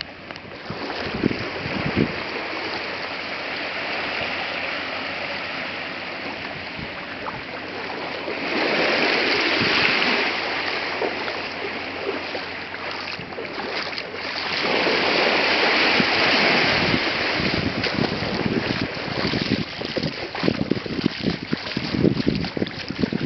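Rush of wind and water past a small boat running at speed, swelling louder twice near the middle. Irregular thumps come in near the end, as the hull slaps the waves.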